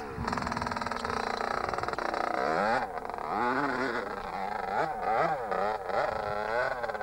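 Honda CR125 single-cylinder two-stroke motocross engine revving hard under load, fairly steady at first, then its pitch rising and falling again and again as the throttle is worked on a steep climb.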